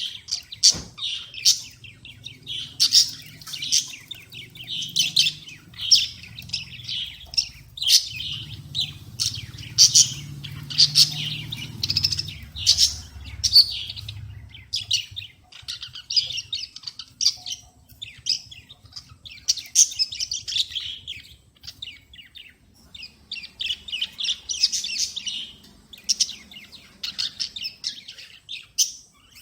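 Cockatiel chirping: rapid runs of short, high chirps in clusters with brief pauses between them.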